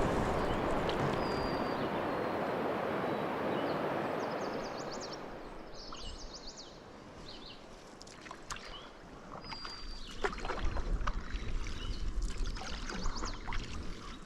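Canoe paddling on water: a steady rush of moving water fades away after about five seconds, then quieter paddle splashes and knocks with scattered high chirps.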